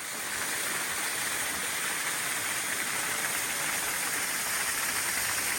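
Steady rushing water, a constant even hiss that swells in over the first half second.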